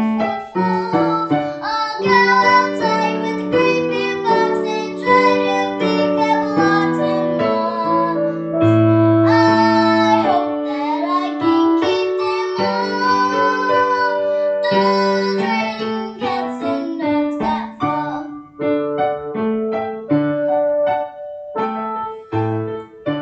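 A young girl singing a cheerful children's song, accompanied by keyboard.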